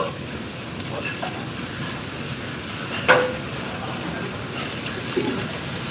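Food sizzling as it fries in a commercial kitchen, a steady hiss with light stirring. About three seconds in there is one short, sharp sound that rings briefly.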